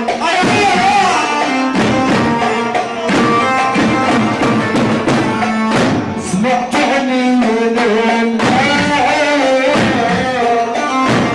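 Live Arabic band music: melodic instruments playing a winding line over a steady hand-drum rhythm.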